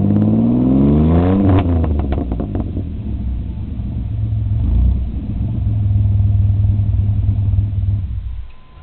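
1989 Camaro's 2.8-litre V6 revving through a glasspack exhaust. Its pitch rises for about a second and a half, then falls back with a few crackles from the exhaust. It runs on steadily and drops away sharply near the end.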